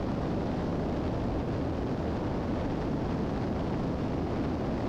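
Steady in-flight cabin drone of a 1981 Piper Seneca III's twin engines and propellers, running evenly in level flight.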